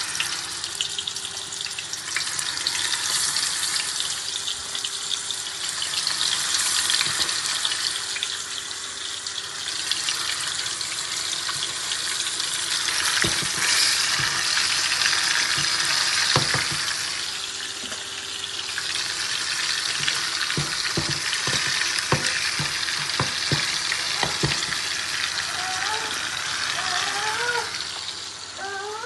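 Chicken leg pieces sizzling as they fry in hot oil and masala in a pan, a steady hiss. In the second half a utensil knocks against the pan again and again as the pieces are turned.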